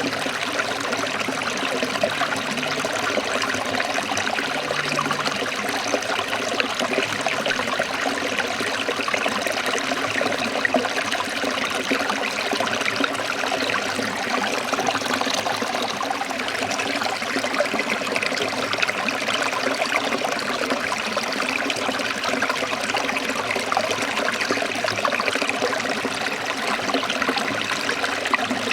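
A shallow stream trickling and splashing over rocks in a steady, even rush of water.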